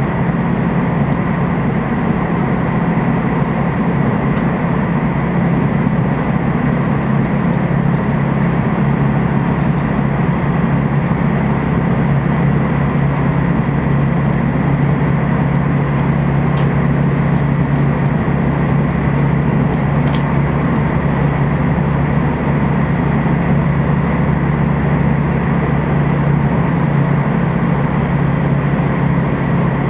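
Steady running noise inside a TEMU2000 Puyuma tilting electric multiple unit carriage under way: an even rumble of the train on the rails with a strong low hum and a thin steady high tone above it.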